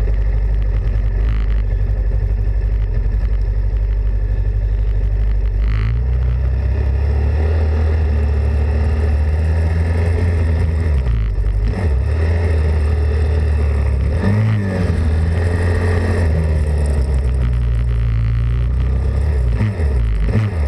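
Pit bike engine running hard, its pitch dropping and climbing again several times as the throttle is closed and reopened, over a loud steady low rumble.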